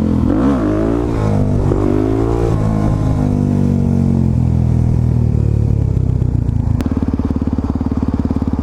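Suzuki DR-Z400SM supermoto's single-cylinder four-stroke engine under way, its pitch rising and falling for the first few seconds, then running steadily. About seven seconds in it drops to an even, pulsing idle as the bike comes to a stop.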